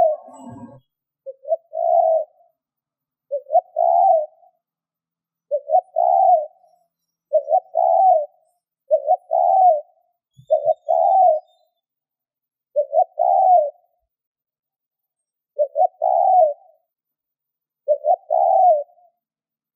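Spotted dove cooing a repeated call: two quick notes and then a longer rising-and-falling coo, about nine times, one phrase every two seconds or so.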